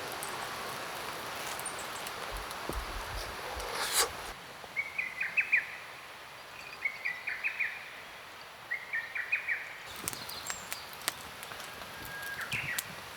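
A songbird singing three short chirping phrases, about two seconds apart, over outdoor ambience. Before the singing there is a steady hiss of noise that ends in a sharp click about four seconds in, and a few more clicks come near the end.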